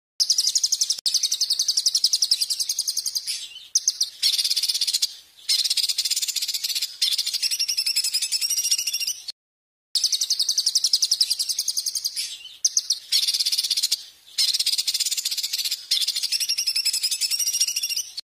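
A songbird singing fast, shrill trills of rapidly repeated high notes, in phrases a second or two long that start and stop abruptly, with a short break about halfway.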